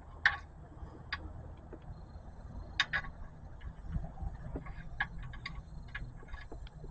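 Faint, irregular light clicks and ticks as the oil drain plug is handled and threaded back into the oil pan by hand, with a low steady rumble underneath.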